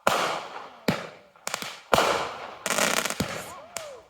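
Consumer fireworks going off one after another: sharp bangs about every half second to second, each fading out in a long echoing tail. There is a quick run of crackling just before three seconds in and brief whistling glides near the end.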